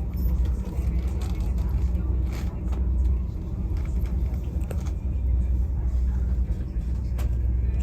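Passenger train running: a steady low rumble with a few light clicks.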